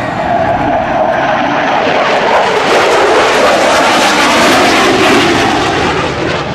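Military aircraft formation of a P-51 Mustang, an F-4 Phantom and an F-22 Raptor flying past, a loud rushing engine noise whose pitch falls steadily as it goes by.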